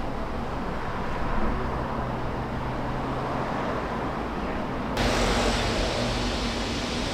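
Steady rumble and hiss of a moving train. About five seconds in it abruptly turns brighter and hissier.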